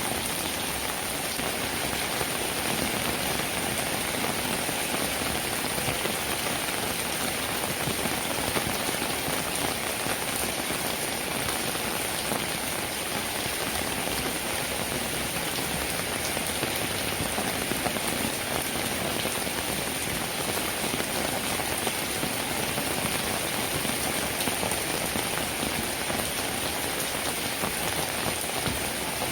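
Steady rain falling, an even hiss of many raindrops that neither builds nor lets up.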